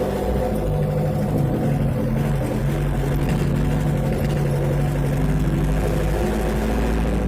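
Old truck's engine running steadily.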